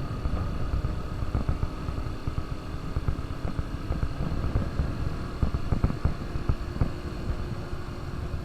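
KTM RC200 BS6 motorcycle's single-cylinder engine running at a steady speed: an even hum over an uneven low rumble.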